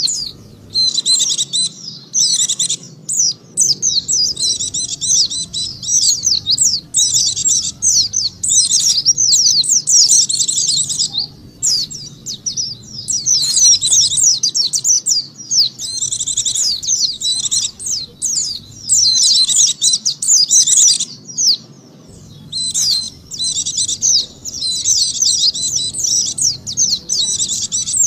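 White-eye (pleci) twittering song: rapid, high chirps in long runs broken by short pauses, used as a lure call to draw wild white-eyes.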